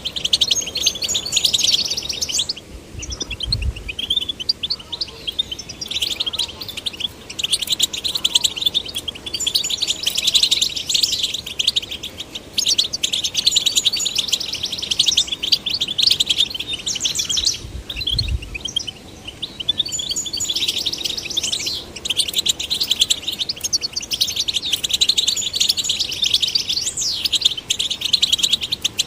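European goldfinch song: a fast, continuous, tinkling twitter with brief lulls about 3 seconds in and again near 18 seconds. A dull low bump sounds at each lull.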